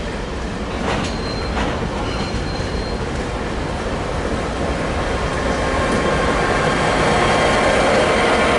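A Class 66 diesel freight train passes along the track, getting louder throughout. Its steel wheels click twice over rail joints early on, and a thin wheel squeal runs over the rumble.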